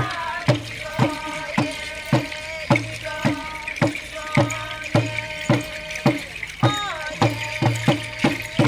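Traditional Papua New Guinean song and dance: a group singing in chorus over drums beaten in a steady rhythm of about two beats a second.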